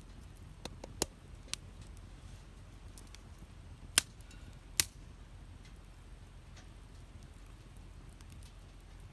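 Wood campfire burning, crackling with scattered sharp pops; the two loudest pops come about four and five seconds in.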